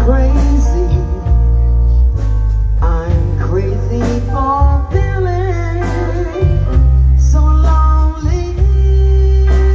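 A band playing a blues-style song with guitar, bass and drums, and a singer's voice coming in partway through.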